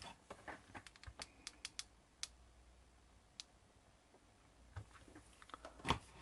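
Light clicks and taps from handling small craft pieces, a quick run of them at first, then scattered ones, with a louder knock near the end.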